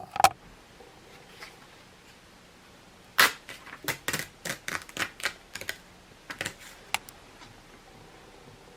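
A single click near the start, then an irregular run of about a dozen sharp clicks and taps, several a second, for about four seconds from about three seconds in.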